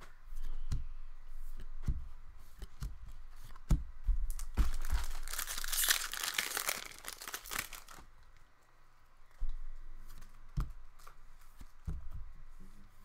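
An Upper Deck MVP hockey card pack wrapper being torn open and crinkled, loudest about five to eight seconds in. Scattered light taps and rustles of cards being handled run around it.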